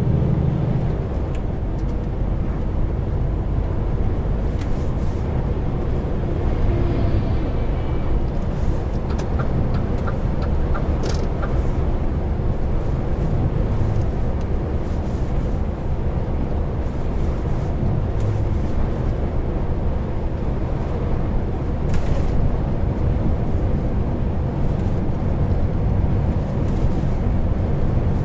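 Heavy truck driving, heard from inside the cab: a steady low engine and road rumble, with a short run of light ticks about a third of the way in.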